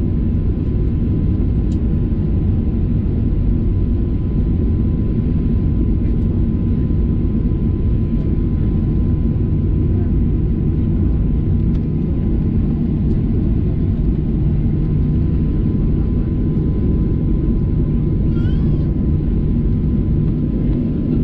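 Steady low rumble inside the cabin of a Boeing 737-800, its CFM56-7B engines running at an even, low thrust with no build-up, as while taxiing, with a faint steady high whine throughout.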